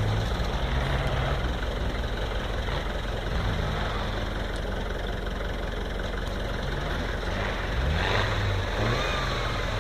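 Volkswagen Iltis off-roader's engine running and revving up and down as it drives over rough ground, over a steady rumble of the driving.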